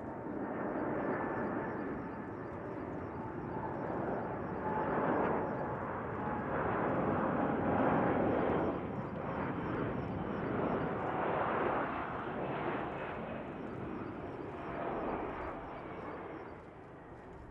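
Jet noise from a four-engine Boeing 747-400F freighter passing by, a steady roar with faint whining tones that swells and then fades away near the end.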